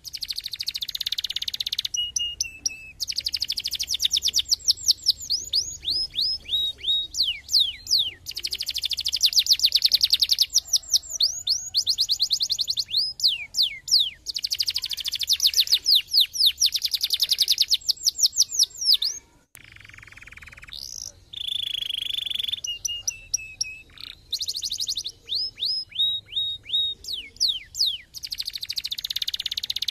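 Domestic canary singing: long rapid trills and rolls with fast sweeping, falling notes. There is a brief quieter break about two-thirds of the way through before the song starts again.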